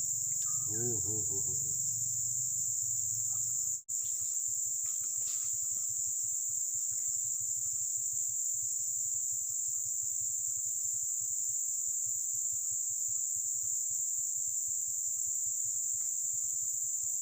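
A steady, high-pitched insect chorus shrilling without pause, with a brief break about four seconds in.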